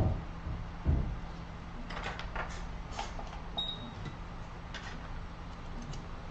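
Small knocks, clicks and scrapes of hand tools being handled on a repair bench, with two low thumps at the start and about a second in, over a steady low electrical hum. A short high beep sounds a little after halfway.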